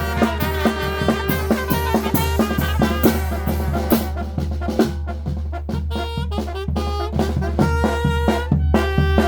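Traditional Oaxacan wind band playing: brass and woodwinds holding melody notes over a steady beat of bass drum and snare.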